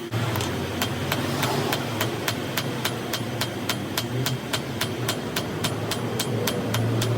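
Metal being hammered in a fast, even rhythm, about five sharp strikes a second, over a steady low motor hum.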